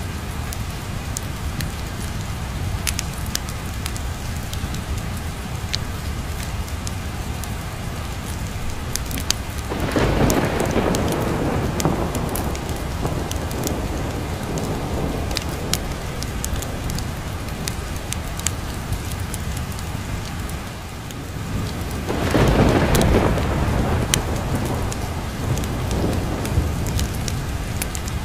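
Steady rain with a fireplace crackling. Thunder rolls in twice, about ten seconds in and again after about twenty-two seconds.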